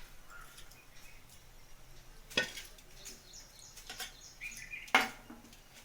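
A spoon knocking against a cooking pot twice, about two and a half seconds apart, while the last of the masala is spooned over the layered rice. Faint bird chirps come in between the knocks.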